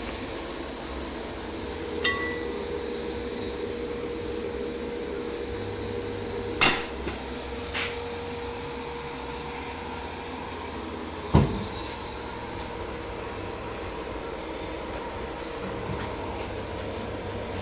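Steady machine hum with a constant tone, broken by three sharp knocks of metal or tools, about two, six and eleven seconds in.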